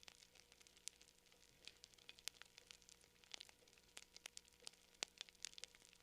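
Campfire crackling faintly: scattered sharp pops and snaps, several a second, over a soft hiss.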